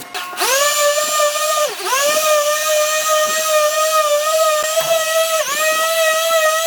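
A small high-speed electric power tool motor spinning up to a steady high whine, with its pitch dropping briefly twice as it is pressed into the work and bogs under load.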